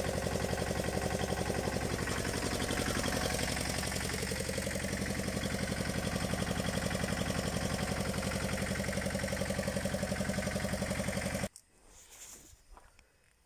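Engine of a 1982 Tomo Vinković TV 522 mini tractor running steadily at an even pace, its firing pulses heard as a fast regular beat. The sound cuts off suddenly near the end.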